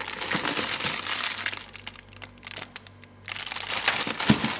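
Crinkling and rustling of packaging as vegetables are handled in a fridge's vegetable drawer, in two spells with a quieter gap of about a second and a half between them.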